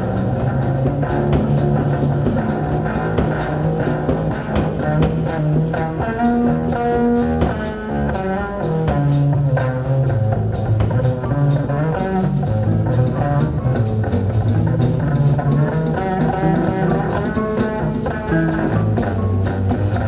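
Live psychedelic rock band playing an instrumental jam: electric guitar lines over bass and a steady drum-kit beat.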